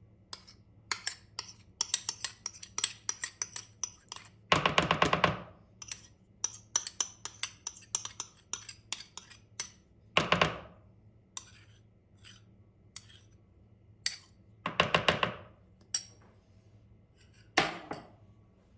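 Kitchen utensils and dishes clinking and tapping in quick series, broken by four short, louder scraping or rushing sounds of about a second or less each.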